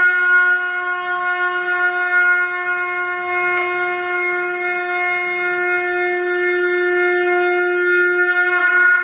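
Conch shell (shankh) blown in one long, steady held note, with a slight shift in tone near the end.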